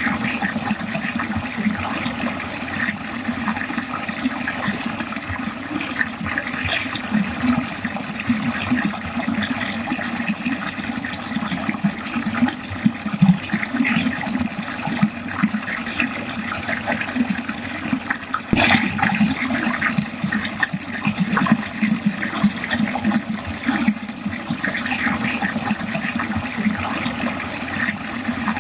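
Water running and gurgling steadily down a drain. There is one brief tap about two-thirds of the way in.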